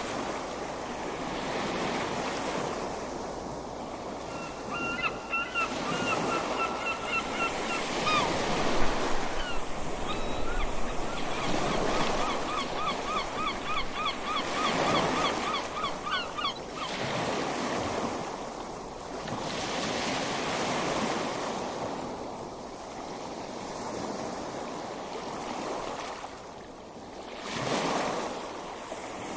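Ocean surf washing onto a beach, swelling and fading in slow waves. From about five to seventeen seconds in, a bird calls in rapid runs of short repeated notes over the surf.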